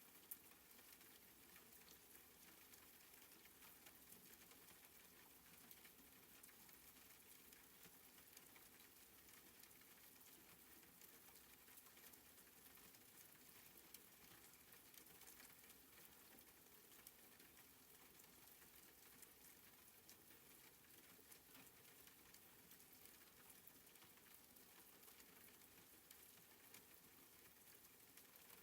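Soft rain falling, faint and steady, with many fine drop ticks.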